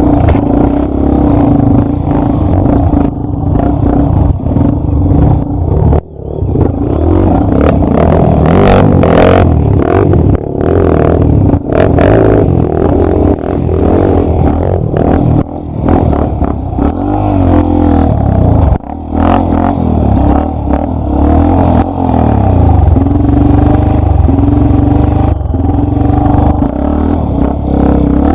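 Yamaha Lander 250's single-cylinder four-stroke engine running hard on a trail, revving up and dropping back as the throttle opens and closes, with a brief fall in engine sound about six seconds in. Knocks and clatter come from the bike working over rough ground.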